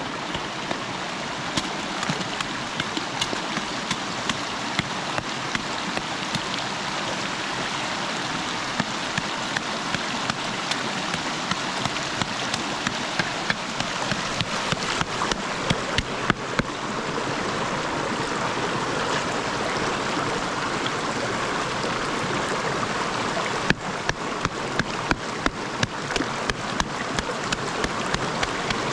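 Steady rushing of river water, with frequent sharp ticks or taps over it that are the loudest moments; the rush dips briefly about 24 seconds in.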